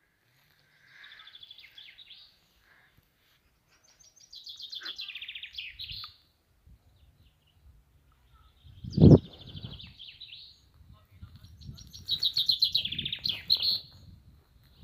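A songbird sings four rapid trilled phrases, each about a second and a half to two seconds long, with pauses of a few seconds between them. A loud, short low thump comes a little past the middle, over a low rumble of noise.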